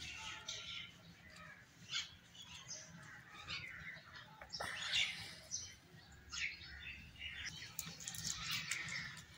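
Birds chirping and calling in short, scattered high notes, with a few sharp clicks among them.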